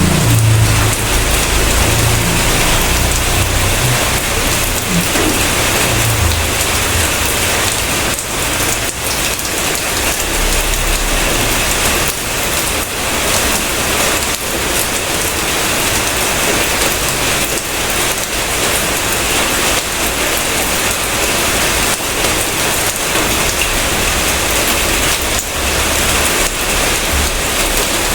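Steady, heavy rain falling on a surface, with a low rumble in the first few seconds.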